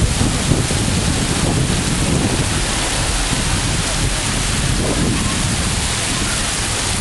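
Heavy rain pouring onto a flooded street: a loud, steady hiss, with a low, fluctuating rumble of wind on the microphone.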